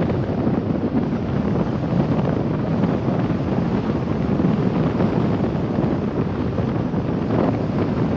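Steady low rumble of a car on the move: road, engine and wind noise, even throughout with no distinct events.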